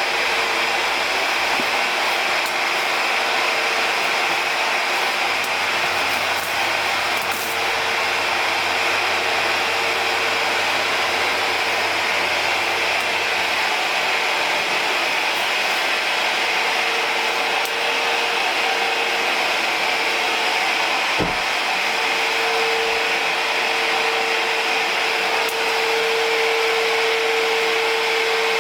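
A sander with dust extraction running steadily during bodywork surface preparation: a continuous whirring hiss with a faint steady hum that grows stronger in the second half. One brief knock sounds about two-thirds of the way through.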